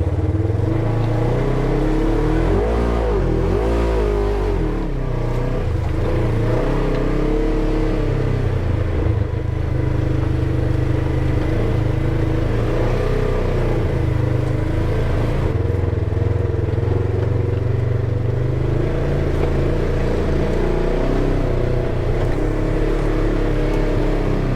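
Polaris side-by-side UTV engine running steadily while driving, its pitch rising and falling briefly a few seconds in.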